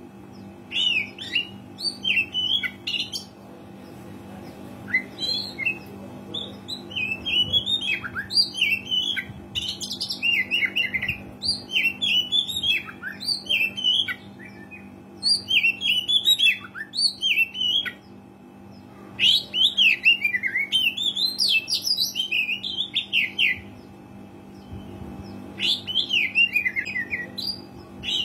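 Oriental magpie-robin singing energetically in bouts of quick, varied whistled and chattering phrases with short pauses between them, over a steady low hum.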